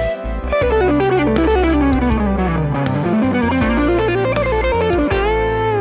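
Outro music: electric guitar playing a quick run of notes over bass and drums, the line falling and then climbing back up about halfway through.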